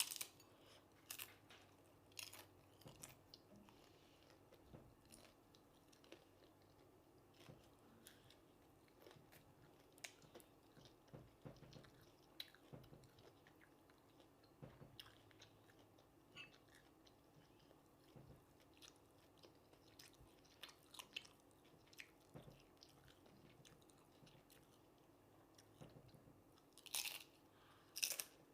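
A person chewing and biting into crunchy food, with irregular crisp crunches scattered throughout; the loudest bites come at the start and near the end.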